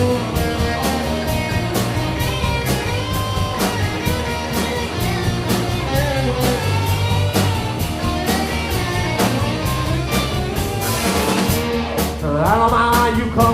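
Live rock band playing an instrumental break: lead guitar lines over a steady drum beat and bass, with a rising pitch bend near the end.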